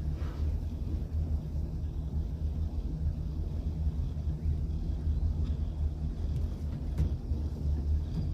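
A boat's engine running steadily, heard as a continuous low rumble, with a single brief click about seven seconds in.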